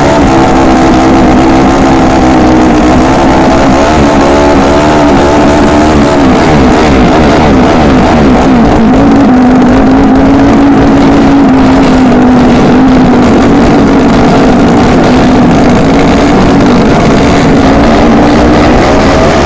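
Racing motorcycle engine running loud and close, its pitch steady with some wavering and a dip a few seconds in.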